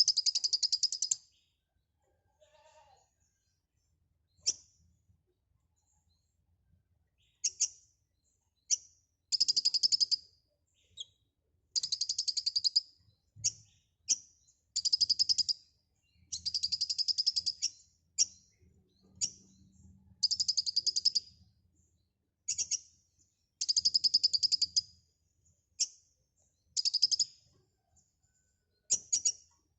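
Kolibri ninja sunbird singing actively: bursts of very fast, high trills about a second long, repeated every one to two seconds, with short single chips between them.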